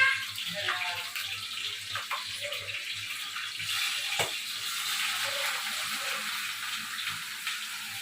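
Steady rushing hiss of running water from a kitchen tap, with a couple of light knocks about two and four seconds in.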